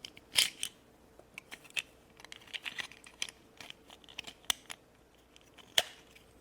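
Small plastic clicks and taps, irregular and scattered, as a snap-on Magic Clip doll dress is handled and fitted onto a small doll; two sharper clicks stand out, about half a second in and near the end.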